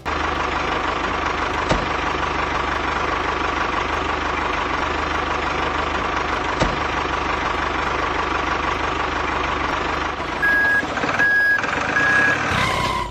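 Truck engine running steadily, then three short reversing beeps near the end before the sound cuts off.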